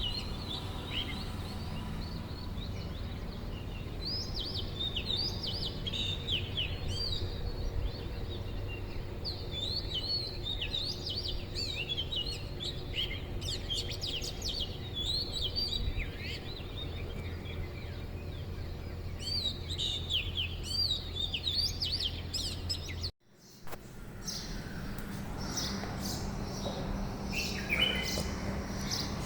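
Birds chirping and calling, many short rapid notes over a steady low background hum. About 23 s in, the sound cuts out for a moment and a different outdoor background comes back, with sharper clicks and fewer bird notes.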